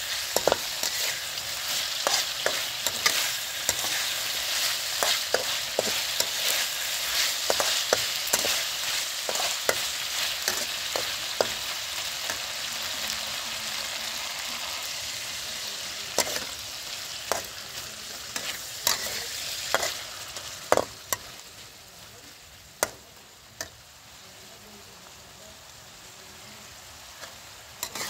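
Sliced pork sizzling in a steel wok, with a metal spatula scraping and clinking against the pan as it stirs the pieces. The sizzle dies down about two-thirds of the way through, leaving a few sharp clinks.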